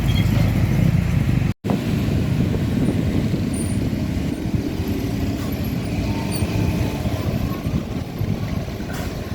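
Heavy truck traffic on a road: steady diesel engine and road rumble from passing trucks. The sound cuts out completely for a moment about one and a half seconds in, then the rumble carries on.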